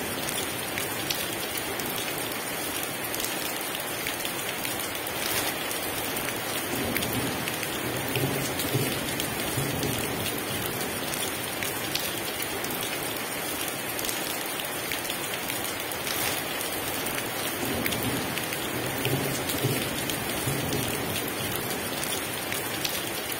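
Heavy rain pouring steadily, with low rumbles of thunder rolling in a few times.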